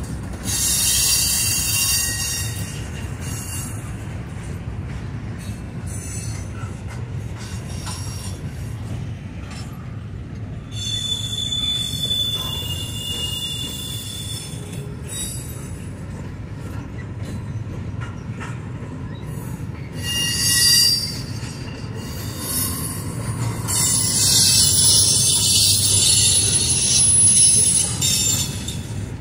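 Double-stack intermodal freight train rolling past with a steady low rumble, its wheels squealing in high-pitched bursts: briefly near the start, again around the middle and just past two-thirds, and longest for several seconds near the end.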